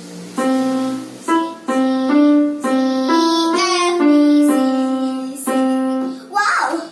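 Keyboard set to a piano sound, playing a slow, simple melody one note at a time, about two notes a second over a narrow range. It has a beginner's halting pace. A brief voice comes in near the end.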